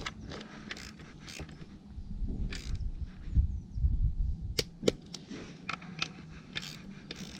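Torque wrench and socket working on the engine case slider bolts: scattered sharp metal clicks and ratcheting with handling knocks, the two loudest clicks about four and a half and five seconds in.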